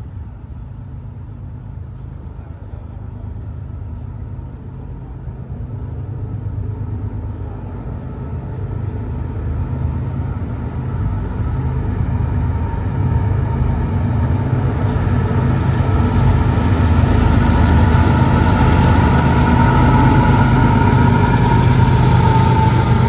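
An approaching train: a low rumble that grows steadily louder. In the second half a high steady whine joins it and dips slightly in pitch near the end.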